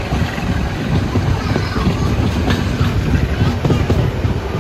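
Passenger train running along the track, heard from an open doorway: a steady loud rumble of wheels and carriages with a few sharp clacks over the rails.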